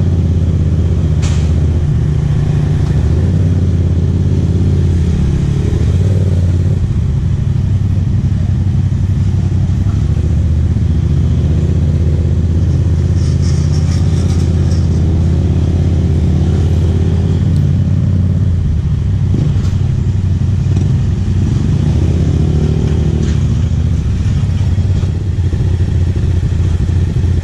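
Yamaha MT-07's parallel-twin engine running at a steady cruise while riding, a constant low drone.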